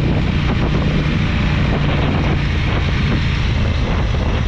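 KTM motorcycle engine running at a steady cruise, with wind rushing over the microphone.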